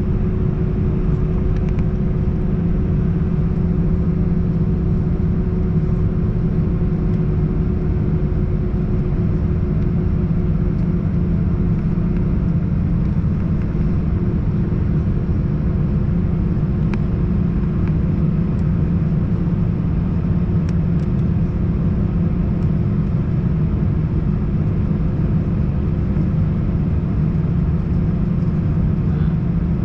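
Cabin noise of an Airbus A321-111 with its CFM56 engines running at a steady low power: a constant low rumble with a steady hum.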